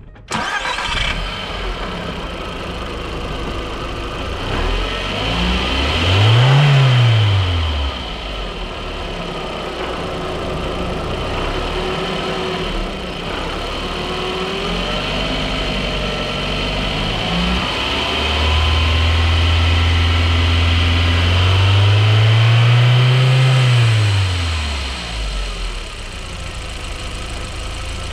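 Audi TT MK1's 1.8-litre turbocharged four-cylinder engine idling and revved twice as a test after a new diverter valve is fitted: a short rev about six seconds in, then a longer one held up from about eighteen seconds in, peaking and dropping back to idle each time.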